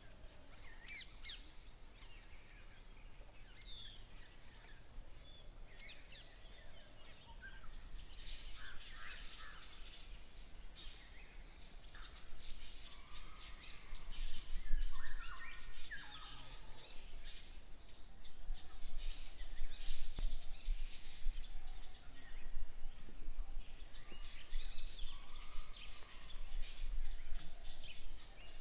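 Wild birds chirping and calling, many short chirps and whistles, over a low steady background rumble. The calls grow busier and louder about halfway through.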